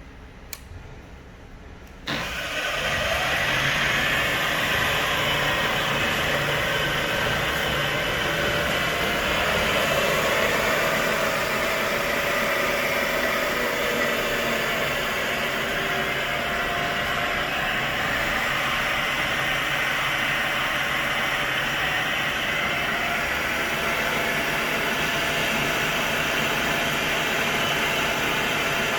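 Bridgeport Series 1 knee mill's spindle motor switched on about two seconds in, then running steadily, with a faint click just before it starts.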